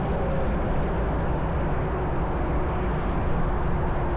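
Steady rumbling noise of riding an e-bike alongside a freeway: wind and traffic noise heaviest in the lows, with a faint steady whine above it.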